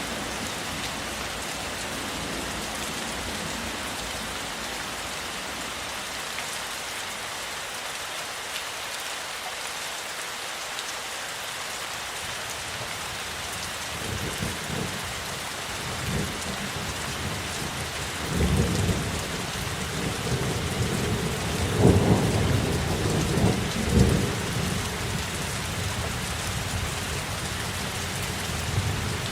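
Steady rain falling, with thunder rumbling in from about halfway through and peaking in two loud rolls near the three-quarter mark.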